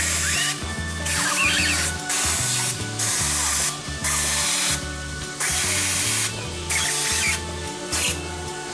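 Water sprayer hissing in short bursts about once a second, rinsing the fins of an air conditioner during cleaning, with background music playing.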